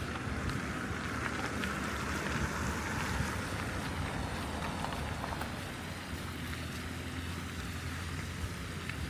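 Winter city street ambience: a steady low hum of traffic, with a rising and fading hiss of car tyres on a snow-covered road in the first few seconds.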